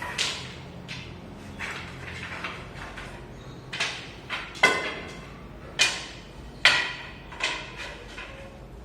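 A run of sharp knocks and clatters with a short ring after each, about nine of them at uneven spacing, the loudest about halfway through and again about two-thirds in.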